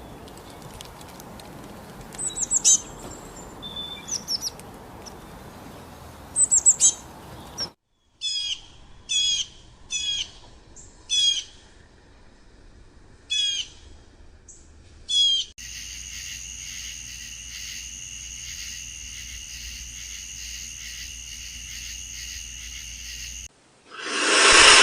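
Small birds chirping, first scattered high chirps over a background hiss, then short repeated calls about once a second. After that comes a steady high-pitched buzzing drone, and a loud burst near the end.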